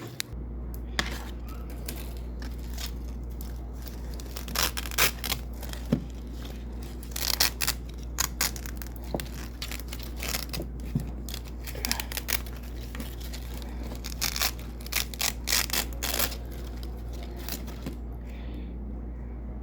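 Double-sided hook-and-loop (Velcro) tape being ripped apart from white hook tape: clusters of short, crunchy rasping rips that stop near the end. A steady low hum runs underneath.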